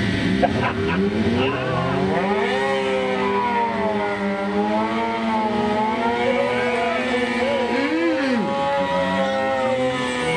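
Car engines revving with a wavering, gliding squeal, typical of tires spinning.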